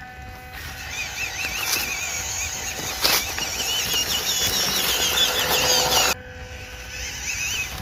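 Small RC crawler's 260 brushed motor and gear train whining under throttle, the pitch wavering up and down as the truck climbs over rocks; it stops abruptly about six seconds in.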